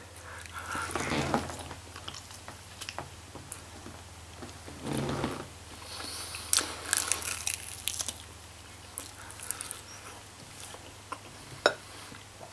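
Close-up chewing of a roasted chicken drumstick: wet mouth clicks and smacks with a few louder bites. A low steady hum sits underneath and fades out about halfway through.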